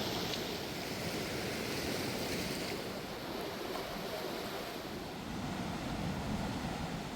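River in flood, a steady rushing of fast-moving water swollen by heavy rain.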